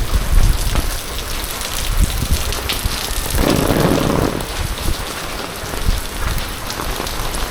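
Heavy typhoon rain falling steadily on surfaces, with a brief louder rushing noise a little over three seconds in.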